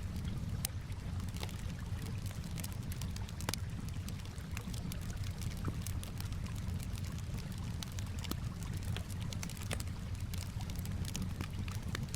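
Campfire crackling with frequent irregular sharp pops, over a steady low wash of gently moving water.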